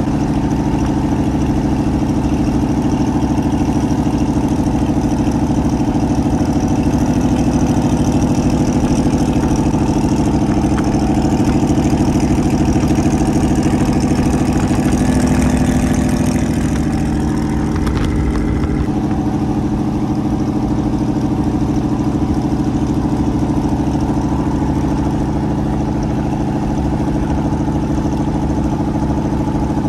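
A vehicle engine running steadily, with its note changing about eighteen seconds in.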